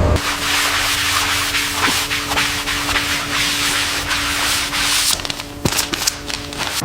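Sanding a surface: a rough, scratchy hiss over a steady hum, with a few sharper scrapes near the end.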